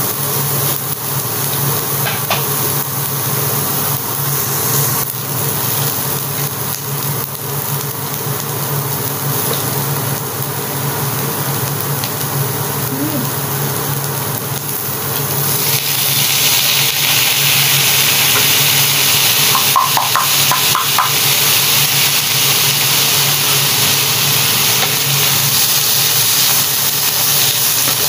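Diced carrots, ham and chicken sizzling in a hot nonstick frying pan as they are stir-fried with a wooden spatula. A little past halfway the canned mushrooms go in and the sizzle turns suddenly louder and hissier. A steady low hum runs underneath.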